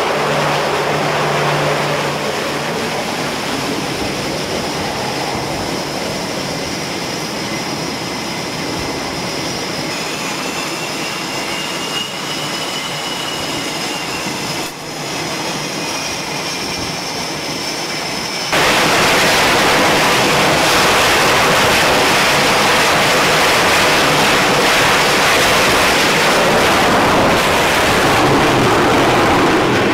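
F/A-18 Hornet jet engines running with a high whine. About two-thirds of the way through, the sound jumps suddenly to a much louder, fuller roar.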